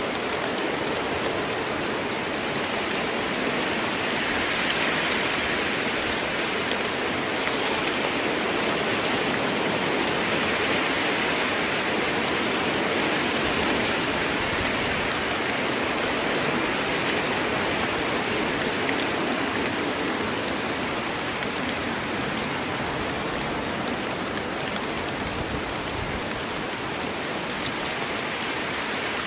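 Steady heavy rain falling in a forest: a dense, even hiss of drops on leaves and ground, dotted with fine individual drop ticks.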